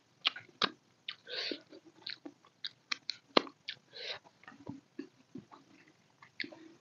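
Close-miked mouth sounds of eating by hand: chewing with sharp wet lip-smacks and clicks as fingers go to the mouth, with two short sucking sounds about a second and a half in and again about four seconds in.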